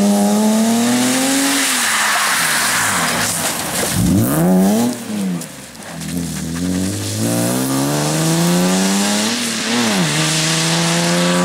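BMW E30 rally car engine driven hard: revs climb, drop through downshifts with quick throttle blips about four seconds in and again near the end, then pull back up and hold high, over a wash of tyre and road noise.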